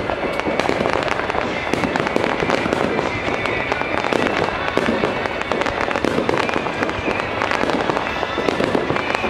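Fireworks bursting in quick succession: a continuous crackle of many sharp pops, with no pause.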